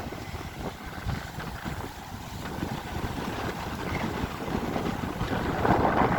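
Wind buffeting the microphone: a rough, gusting rumble that swells louder near the end.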